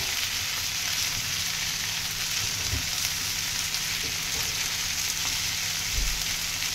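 Eggplant, potatoes and masala frying in hot mustard oil in a kadhai: a steady sizzling hiss, with a small knock about three seconds in and a low thump near the end.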